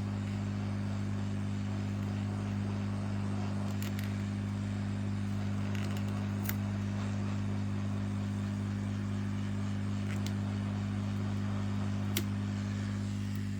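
Steady low hum, unchanging in pitch and level, with a few faint light clicks scattered through it.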